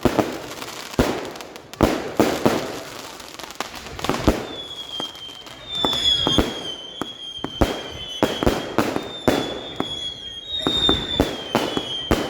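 Fireworks going off all around: many sharp bangs and pops in quick succession, joined about four seconds in by a high, steady whistle, typical of whistling fireworks, that wavers and dips slightly and keeps going.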